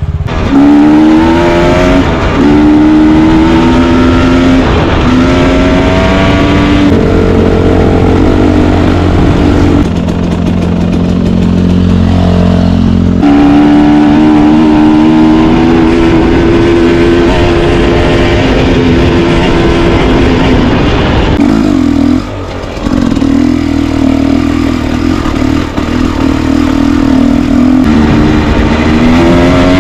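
Enduro motorcycle engine running under way, its revs climbing, holding and dropping again several times as the rider accelerates and shifts, with a brief drop in revs about two-thirds of the way through.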